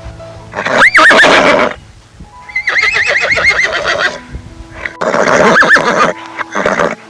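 Horses whinnying: three loud neighs, each with a quavering, wavering pitch. The middle one is the longest, nearly two seconds. Faint held tones sound underneath.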